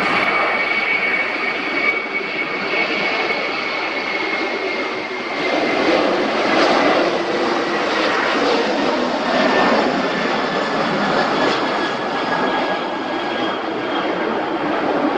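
Airbus A330-300's twin General Electric CF6-80E1 turbofans running, a steady jet roar with a high whine that slowly falls in pitch. The roar swells in the middle and then eases.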